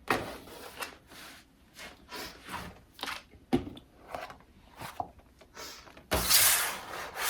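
Objects being handled and moved about: scattered light knocks, scrapes and rubs, then a loud rustling about six seconds in.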